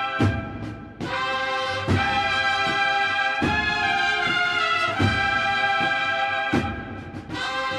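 Municipal brass band playing a slow Holy Week piece in held brass chords, with a drum stroke about every second and a half. The music thins briefly twice, near the start and near the end, between phrases.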